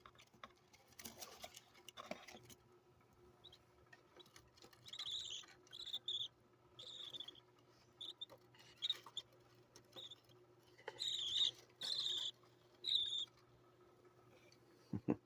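Budgerigar chicks about 24 days old calling: a series of short, high chirps, most of them between about five and thirteen seconds in. Brushing or rustling sounds near the start.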